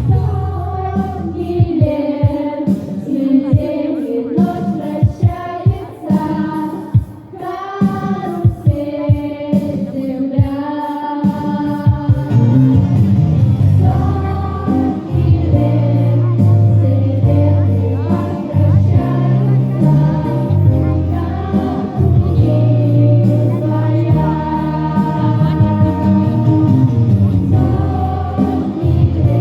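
A group of girls singing in unison over a backing track with a steady beat and bass.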